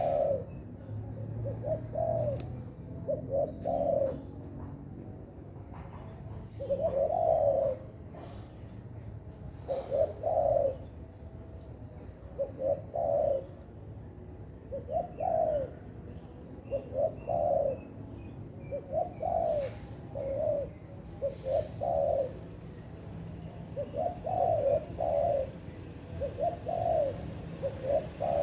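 Spotted dove (tekukur) cooing over and over, its short low coo notes in groups of two or three every second or two, over a steady low hum.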